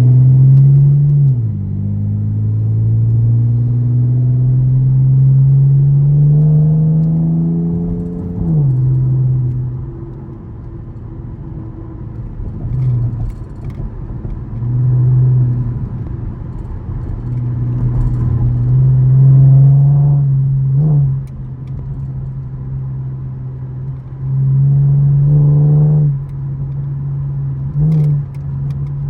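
2013 Camaro LS's 3.6-litre V6 pulling through the gears: its pitch climbs and drops sharply at upshifts about a second in and again around eight seconds. Later it runs lower with quick rev blips on downshifts, around the twenty-one and twenty-eight second marks.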